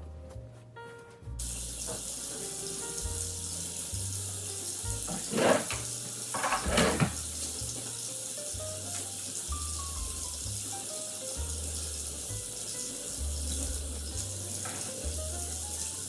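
A steady hiss of water starts abruptly about a second and a half in, with two louder splashing surges around the middle, under background music with bass notes and a simple melody.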